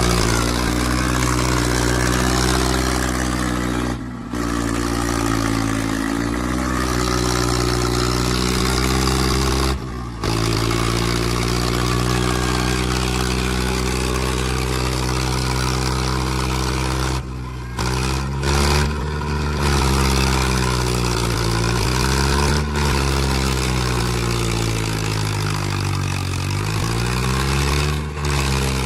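Diesel tractor engines labouring under heavy load in a tractor tug-of-war, their pitch sagging and climbing again several times. The sound is cut off abruptly for a moment now and then.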